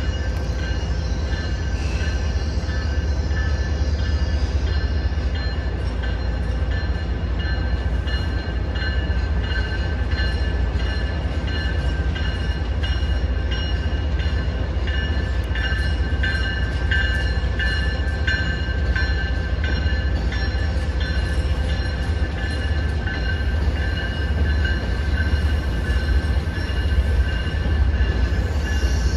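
MBTA commuter rail train with bilevel coaches rolling into the station. A steady low rumble carries high squealing tones from the wheels, loudest about halfway through.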